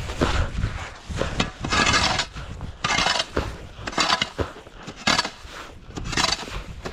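Snow crunching and scraping in repeated bursts, about one a second, some short and some drawn out.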